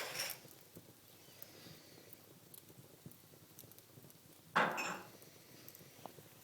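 Wood fire in a fireplace crackling softly, with a few small snaps and one loud sharp pop about four and a half seconds in.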